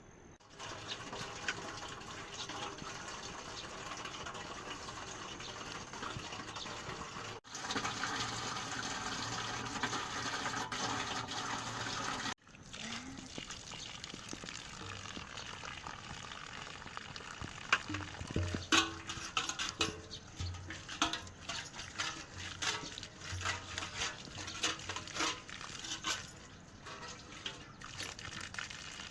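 Steady rushing of water, as of heavy rain, which cuts off suddenly twice. In the last half, many sharp clicks and knocks sound over a quieter water noise.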